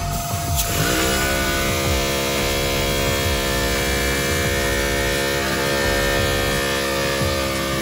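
A steady pitched mechanical hum that starts about a second in with a brief upward glide, then holds steady.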